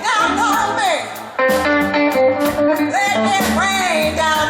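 Live blues band playing: guitar lines that bend in pitch over bass and drums, with a brief drop in level about a second in.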